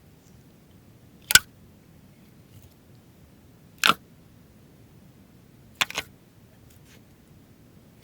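Slime being squeezed and pressed by hand, giving sharp air-bubble pops about two seconds apart, the third a quick double.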